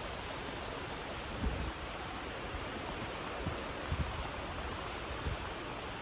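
Steady wash of ocean surf on a beach, with a few soft low bumps of wind on the microphone.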